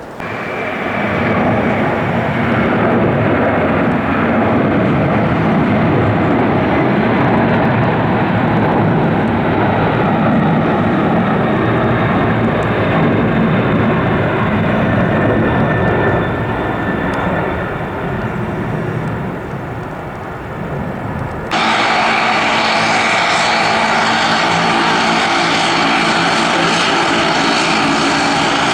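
Cargo aircraft engines running loud and steady at close range. About three-quarters of the way through the sound changes abruptly to another aircraft's engines, with a higher hiss and steady whining tones.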